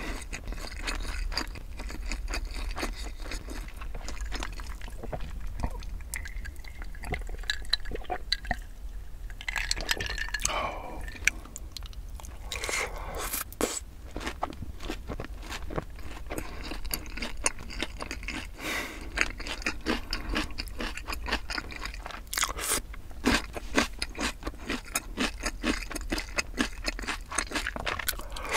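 Close-miked chewing of sauced fried chicken: steady crunching and wet, squishy mouth sounds with many small irregular clicks.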